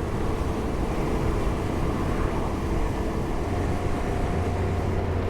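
Yamaha Ténéré 700's parallel-twin engine running at a steady cruise under wind and road noise while riding. The engine note grows a little stronger about three and a half seconds in.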